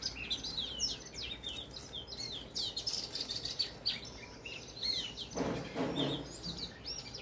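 Many small birds chirping at once, a dense run of short, high, up-and-down chirps that overlaps without a break. A brief lower, muffled sound comes in about five and a half seconds in.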